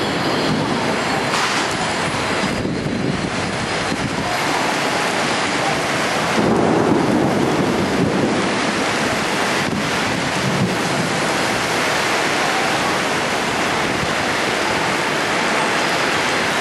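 Torrential rain pouring down in a steady, loud, dense hiss, a sudden localized cloudburst.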